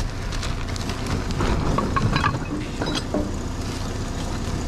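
Steady low rumble of an idling vehicle engine, with scattered light clicks and rustling of bags and objects being handled.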